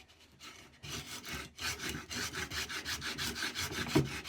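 Record No. 71 router plane blade shaving wood in rapid short strokes, a rasping scrape about five times a second that starts about a second in. A single knock comes near the end.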